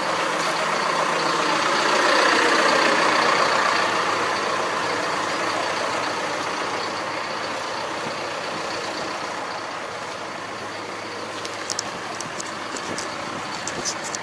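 A large engine running steadily, swelling a couple of seconds in and easing off slowly, with a few light clicks near the end.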